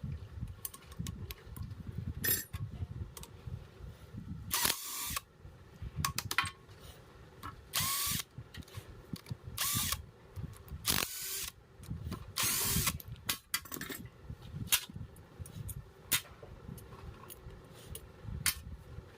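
A small electric motor run in about five short bursts of half a second or so each, its whir bending in pitch as it spins up and stops. Between the bursts there are clicks and knocks of metal parts being handled.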